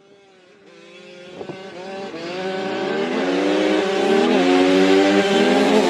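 Two Kawasaki KX100 two-stroke dirt bikes accelerating hard from a standing start in a drag race. The engine pitch climbs and drops back at upshifts, about four and six seconds in, growing steadily louder.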